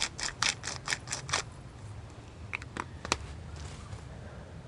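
A quick run of short, rhythmic scratchy strokes, about six a second, stopping a second and a half in, then three scattered clicks, from hands working on food for a shashlik marinade.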